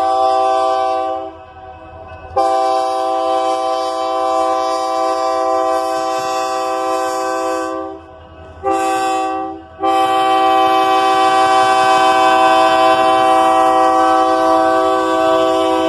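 Lead locomotive L&C 2829's multi-chime air horn blowing the grade-crossing signal: the end of one blast, then a long blast, a short blast, and a long blast held on. Under it runs the low rumble of the train.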